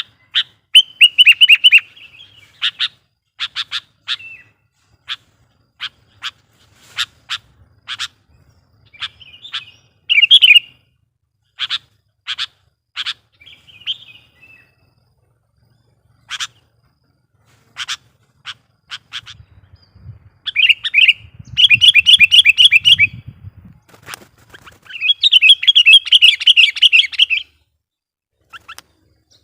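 Sooty-headed bulbul calling: sharp single chip notes at irregular intervals, broken by short bubbling warbled phrases, with the longest phrases near the end.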